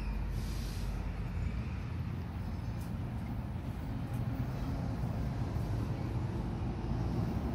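NJ Transit double-deck commuter train approaching on the rails, a steady low rumble that slowly grows louder as it nears.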